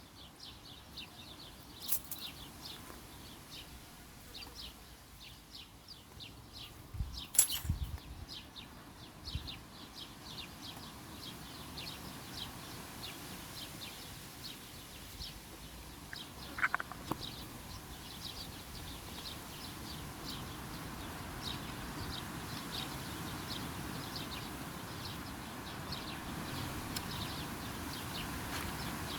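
Small birds chirping: short, high chirps repeated about three times a second. Two sharp clicks come in the first third, and a hiss in the background grows louder over the second half.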